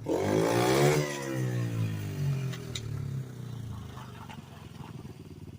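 Pit bike engine revving: the pitch climbs sharply for about a second, then drops back and the engine runs on at a lower, steady speed, with a few light ticks and clatter.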